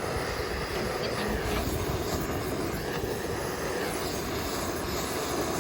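Handheld gas torch burner roaring steadily as it is used to light damp firewood after the campfire went out.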